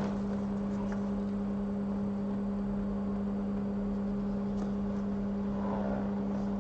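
Steady low hum of running workbench equipment, one constant pitch with a fainter overtone above it, under a few faint light ticks.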